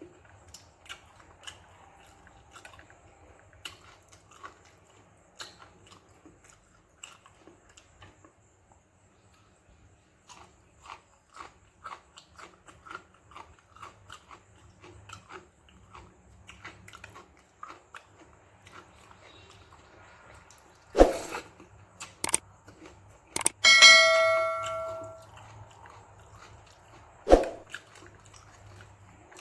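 Close-miked eating: soft wet chewing and small mouth clicks from someone eating fermented rice and okra stir-fry. About two-thirds of the way through come a few sharp knocks and a metal clang that rings on for about a second and a half; later there is one more knock.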